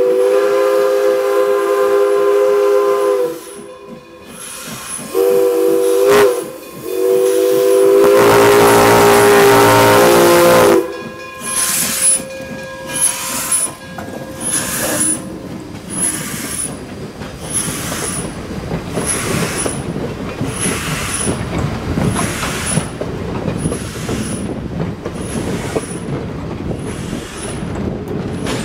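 Steam locomotive No. 98's chime whistle blowing a long blast, a short blast, then a longer, louder blast with a hiss of steam. After that the train runs on with the steady rumble of the engine and wheels on the rails.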